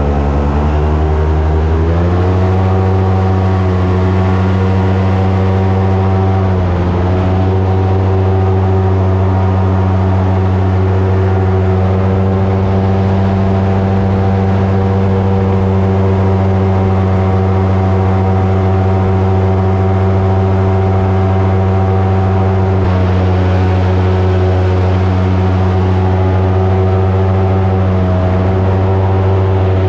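Airboat's engine and propeller running at speed, revving up over the first couple of seconds and then holding a steady high drone, with a brief dip in pitch about seven seconds in.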